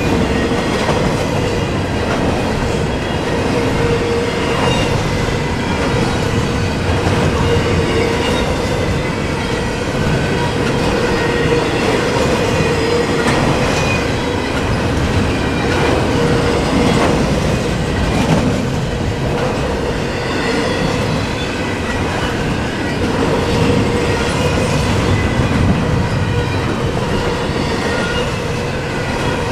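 Double-stack intermodal container cars of a freight train rolling past, a steady rumble and clatter of steel wheels on rail with a continuous wavering squeal of wheels over it.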